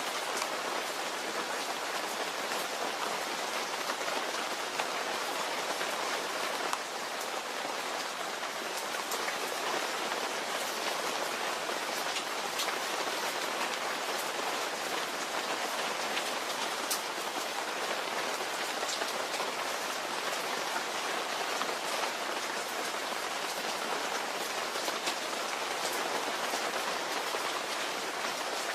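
Steady rain falling: an even hiss, with scattered sharp ticks of individual drops striking a surface.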